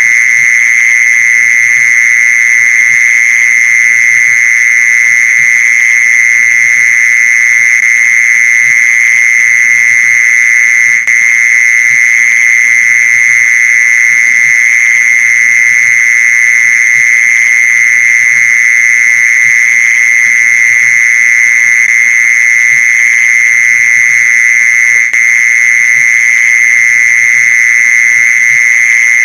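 Mole cricket's calling song: one loud, unbroken, steady-pitched trill that goes on without a pause.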